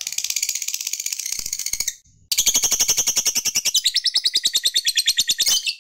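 Lovebird 'ngekek': a long, rapid chattering trill of high notes at about a dozen a second, in two runs, the second starting after a brief pause about two seconds in and lasting about three seconds.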